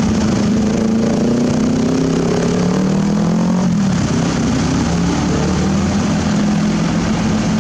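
Excavator's diesel engine running loud and steady while at work. For a few seconds its pitch climbs gradually, then drops back about three and a half seconds in.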